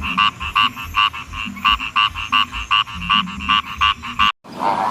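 Frog calling: a fast, even series of short croaks, about four a second, which cuts off suddenly shortly before the end.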